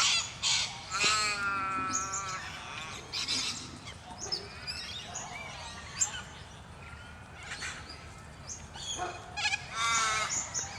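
A flock of cockatoos calling raucously, with repeated harsh, pitched calls that are loudest near the start and again near the end.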